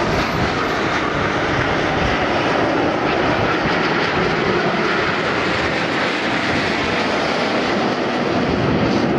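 Jet noise from Aermacchi MB-339 PAN aircraft flying their display: a loud, steady rushing roar that holds throughout.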